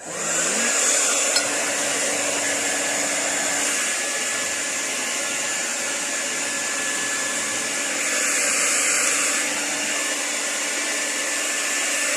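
Small handheld Nikai hair dryer switched on: its motor spins up with a brief rising whine, then it blows steadily with a thin high whine over the rush of air, swelling slightly now and then.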